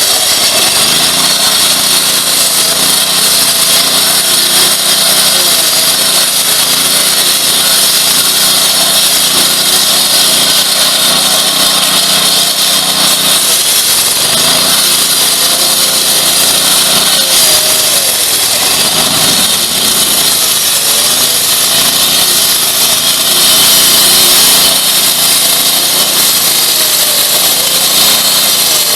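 Walk-behind gas-powered asphalt saw running steadily and loud, its blade grinding through asphalt pavement in a continuous hiss, with the engine note wavering slightly under load.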